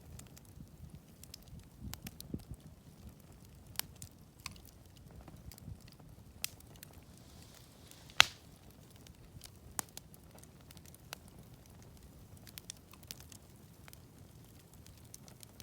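Wood campfire crackling with scattered sharp pops; the loudest pop comes about eight seconds in.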